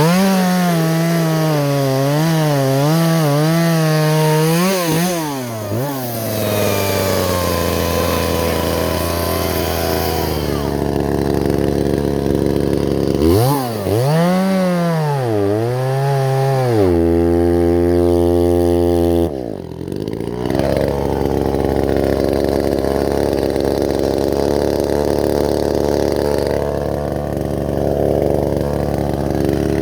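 Gas chainsaw revving high with its pitch wavering, as when it is cutting into wood, then dropping back to a lower steady run. Near the middle it revs up again and holds a steady high pitch, then falls back to the lower running pitch for the rest.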